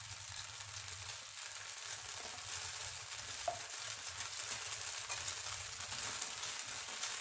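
Thin rice-batter neer dosa sizzling in a nonstick frying pan over a gas flame: a steady hiss with fine crackling.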